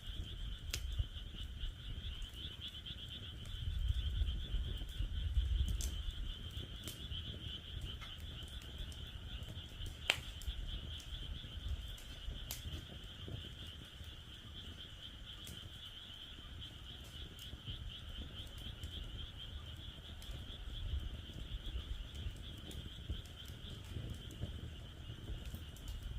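Wood fire in a fire pit crackling with scattered sharp pops, one louder snap about ten seconds in, over a steady high chorus of frogs calling.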